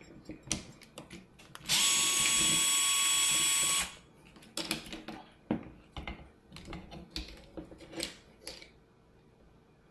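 Small electric screwdriver or power driver spinning steadily for about two seconds, followed by scattered light clicks and taps of small parts and tools being handled.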